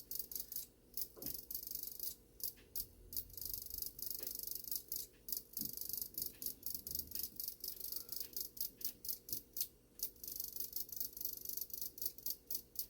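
Rapid, uneven metallic clicking from a Shanghai 555 clock movement, about three to four clicks a second.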